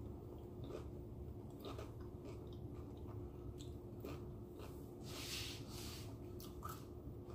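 A person chewing crunchy taco shell close to the microphone, with scattered crisp crunches and a louder crunch about five seconds in.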